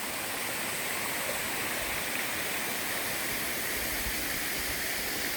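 Erawan waterfall cascading: a steady, even rush of falling water.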